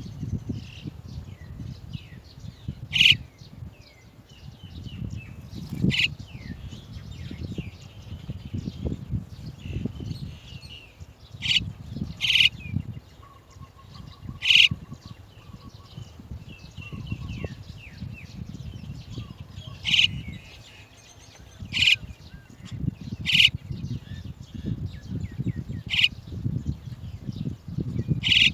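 Chestnut-tailed starlings calling at the nest: about ten sharp, loud, high single calls spaced a few seconds apart, with fainter chirps between them over a low background rumble.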